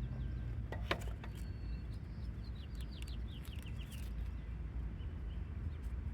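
A songbird chirping a quick run of short notes, over a steady low outdoor rumble, with a sharp click about a second in.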